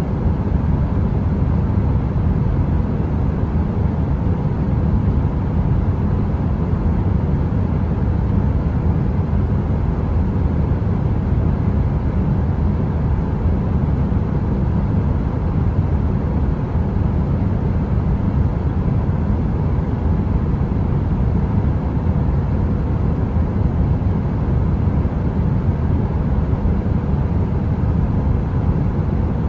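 Space heater running: a steady, deep rushing noise, heaviest in the low end, with a faint steady hum and no crackling.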